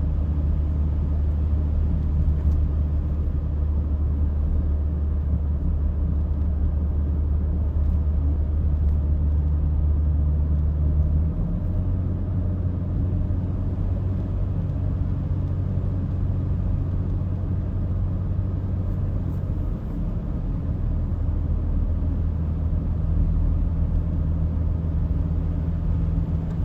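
Car cabin noise while driving: a steady low drone of engine and tyres on the road. Its pitch shifts about eleven seconds in and again near twenty seconds, as speed or gear changes.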